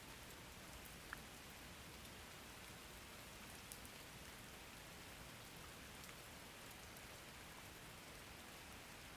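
Faint, steady rain falling, with a few scattered drop ticks.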